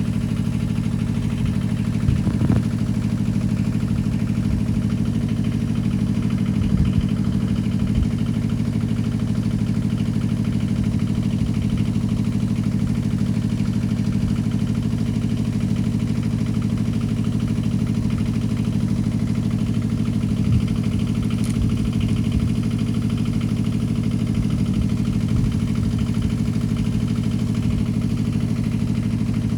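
Kubota KH-007 mini excavator's diesel engine running steadily at idle, with a few short knocks, at about two and a half, seven, eight and twenty seconds in.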